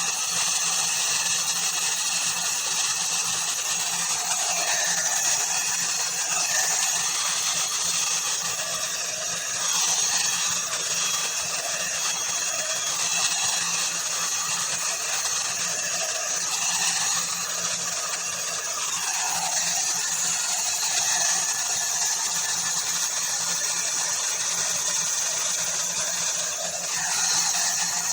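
Ubeator hot air brush (hair dryer and styler) running steadily: a small motor's whine over a rush of blown air. The air sound changes a few times, around a third of the way in, midway and near the end.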